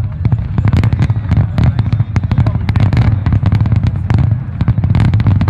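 Fireworks display: a dense volley of bursts, many sharp cracks and pops a second, over a constant deep rumble of booms.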